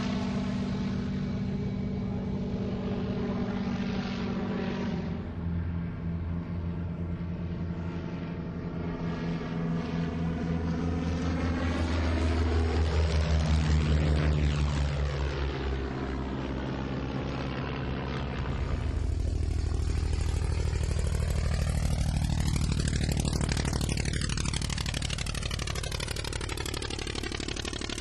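Vintage piston-engined propeller aircraft flying past, the engine note swelling and dropping in pitch as it passes about halfway through, then swelling again on a second pass near the end.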